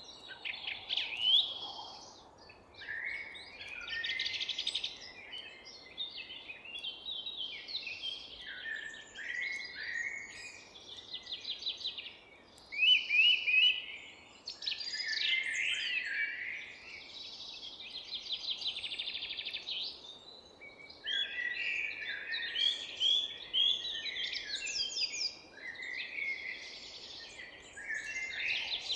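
Several songbirds singing and calling at once, overlapping chirps and rapid trills with no pause, over a faint steady background hiss.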